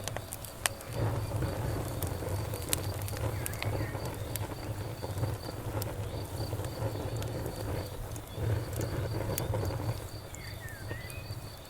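Campfire burning: a low rumble with scattered sharp crackles and pops. Behind it, a night insect chirps evenly about three times a second, with a few short higher chirps near the middle and the end.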